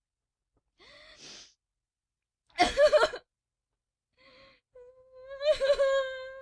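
Animated female character crying, in a woman's voice: a faint catching breath, a loud sobbing gasp about two and a half seconds in, then a long, high, held whimpering wail from about five seconds in.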